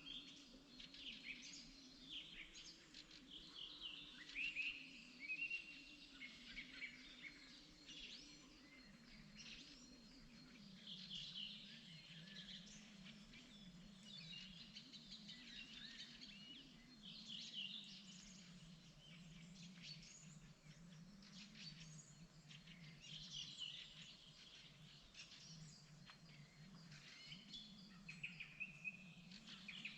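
Several songbirds singing and chirping in spring, overlapping short chirps and trills throughout, faint, over a low continuous drone.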